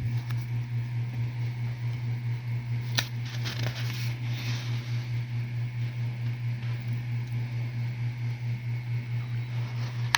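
Steady low mechanical hum with an even pulsing. A sharp click and a short rustle come about three seconds in.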